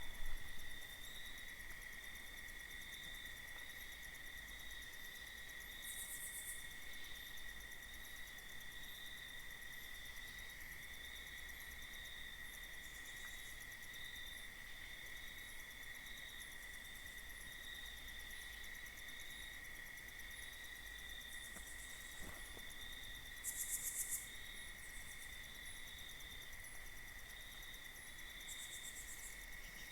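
Crickets trilling in a steady, unbroken high chorus, with two short high rustles, the louder one about two-thirds of the way through.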